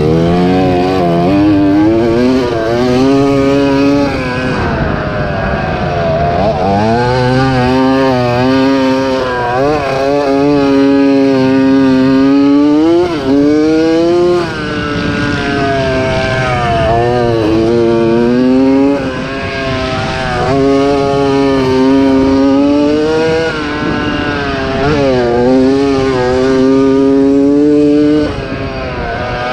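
1987 Yamaha YZ80 two-stroke motocross bike engine run hard. Its pitch repeatedly climbs, holds and drops off as the throttle is rolled on and off through the course.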